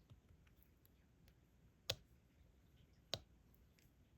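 Near silence broken by two sharp clicks about a second and a quarter apart and a few faint ticks: a diamond painting pen tapping drills onto the canvas.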